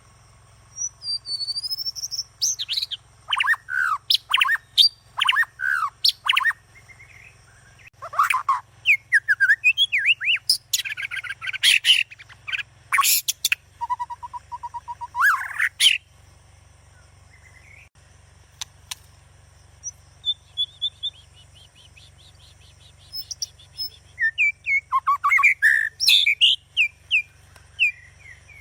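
Birds chirping and calling: dense bursts of short chirps and whistled glides, a quieter stretch with a fast thin trill partway through, then another busy burst near the end. A faint steady low hum lies underneath.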